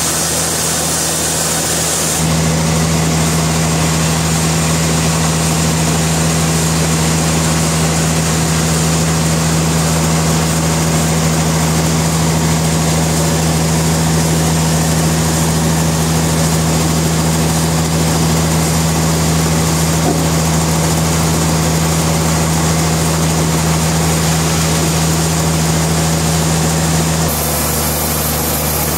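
Sawmill machinery running with a steady engine-like drone. Its tone changes about two seconds in and changes back shortly before the end.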